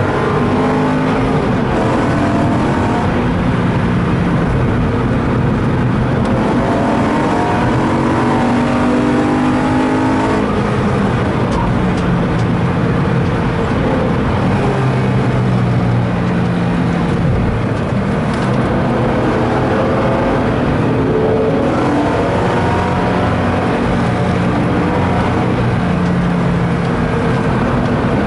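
BMW M3 E92's 4.0-litre V8, heard from inside the cabin, pulling hard with its pitch climbing and dropping back at each gear change, several times over, over steady road noise.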